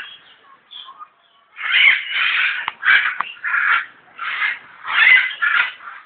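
Harsh bird calls: after a quiet second or so, a quick run of short squawks, about eight or nine, some running into each other.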